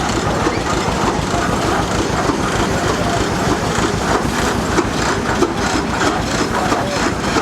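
A small steam traction engine running, with a fast, steady mechanical beat.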